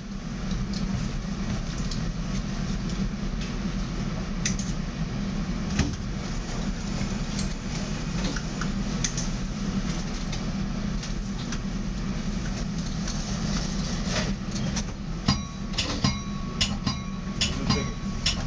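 Steady low rumble of a Metra commuter train running on the rails, heard inside the cab car, with scattered clicks and knocks. Near the end a quicker run of sharp rattling clicks sets in, with a faint steady tone under it.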